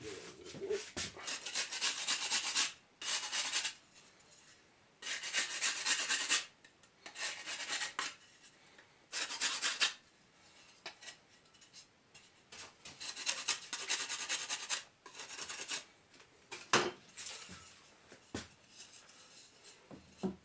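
A brick facing tile being rubbed clean by hand, in bursts of scraping strokes lasting one to two seconds with pauses between. A few short knocks come near the end.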